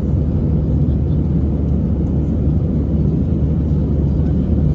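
Steady low rumble of an Airbus A320-200 heard from inside the passenger cabin: engine and airflow noise, even in level and pitch throughout.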